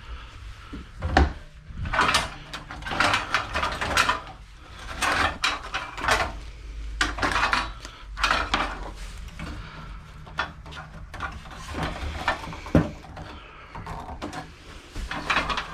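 Metal and plastic parts of an old desktop computer being handled and pried apart by hand: repeated scraping and rattling, with a sharp knock about a second in and another later on.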